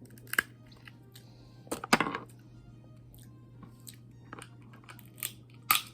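A person eating snow crab, chewing and crunching with several sharp cracks, the loudest about two seconds in and near the end.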